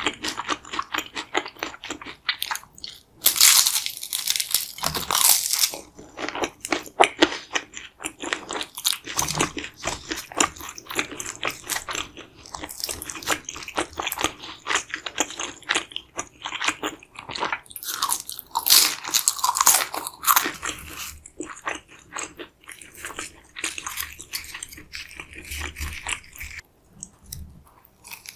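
Close-miked eating: bites into a crispy fried chimichanga with a loud crunch, then steady crunching and chewing, with louder crunching bursts a few seconds in and again about two-thirds of the way through.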